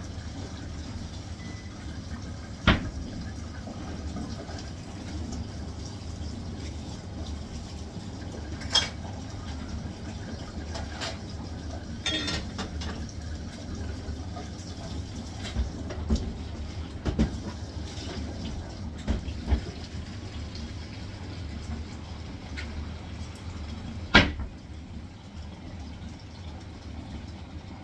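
Hisense washing machine running on its spin cycle: a steady low hum with water sounds and sharp knocks every few seconds, the loudest near the end.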